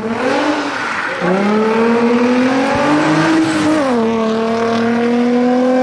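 Nissan 350Z rally car's engine accelerating hard, its pitch climbing and then dropping twice, about a second in and just under four seconds in, as it shifts up through the gears, then pulling steadily in the higher gear.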